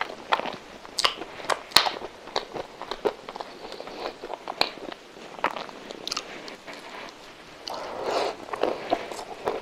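A person chewing and smacking a soft custard-filled milk dessert roll, with many short wet mouth clicks. Near the end a new bite and a busier stretch of chewing.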